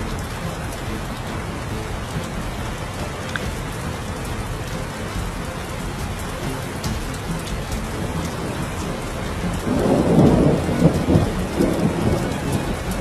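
Heavy rain falling steadily in a thunderstorm, with a louder rumble of thunder about ten seconds in.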